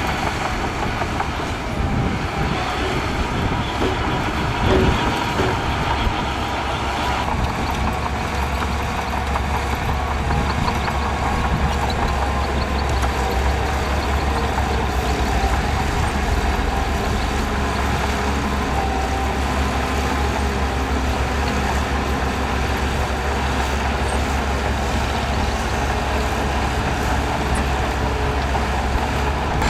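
Heavy diesel engine of earthmoving machinery running steadily under load, with a deep continuous hum and a couple of louder knocks about five seconds in.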